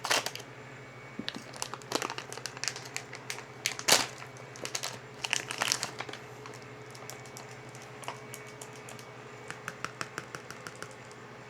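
Plastic and cardboard packaging of a magenta UV ink cartridge crinkling and clicking as it is handled, busiest over the first six seconds, with lighter ticks near the end. A steady low hum runs underneath.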